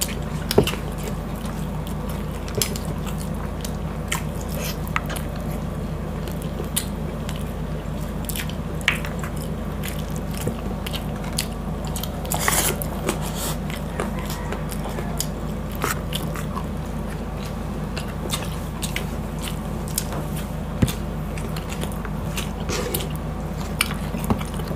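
Close-miked chewing and mouth sounds of people eating soft stewed pork and rice by hand, with many short, irregular wet clicks over a steady low hum.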